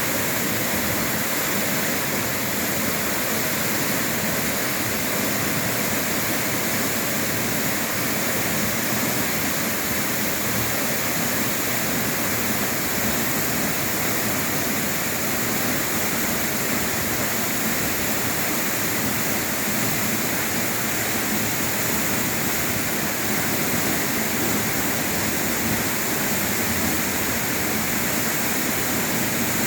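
Waterfall: falling water pouring in a steady, unbroken rush that is strong in the high range, with no breaks or changes.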